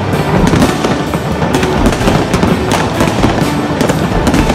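Many fireworks going off at once, a dense run of bangs and crackles several times a second, with music playing along.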